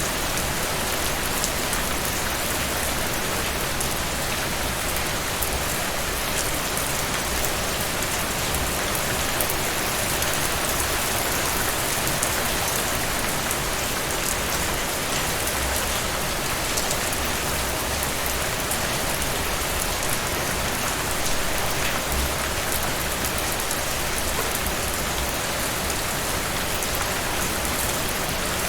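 Steady rain falling and pattering on a surface, an even hiss with many fine drop ticks.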